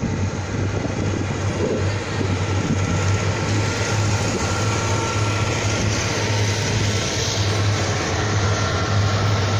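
A train passing close by: a steady, loud running noise of wheels on the track with a low hum that continues throughout.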